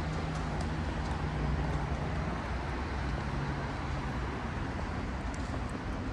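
City street traffic noise, with a vehicle engine running close by as a steady low hum that drops out briefly past the middle and returns.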